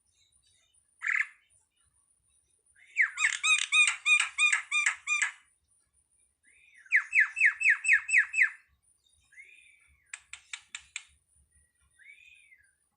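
A jalak (a starling or myna) calling: one short note, then two fast runs of repeated curved notes, then a quick string of clicks and a single arched note near the end.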